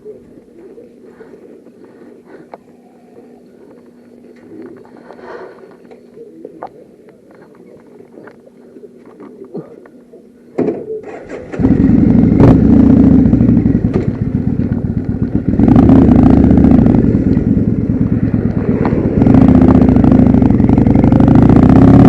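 Faint small clicks and handling sounds for about ten seconds, then a sharp click. About eleven and a half seconds in, a Kawasaki Vulcan motorcycle engine starts and runs loudly, stepping up louder twice.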